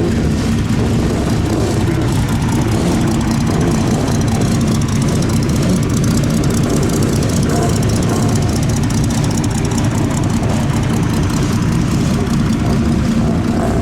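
Rally car engine running steadily at a constant speed, a loud, even drone with no revving.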